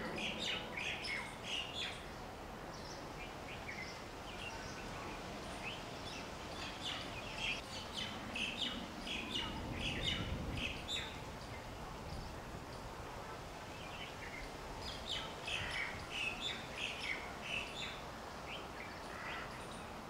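Birds chirping: groups of short, high notes, coming in bursts at the start, again from about six to eleven seconds in, and from about fifteen seconds in, over a steady faint background hiss.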